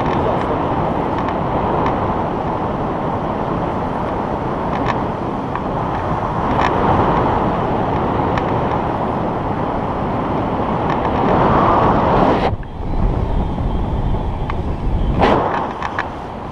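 Wind rushing over the microphone of a paraglider in flight, a steady loud rush that drops away suddenly about twelve seconds in, leaving a low rumble and one more short gust.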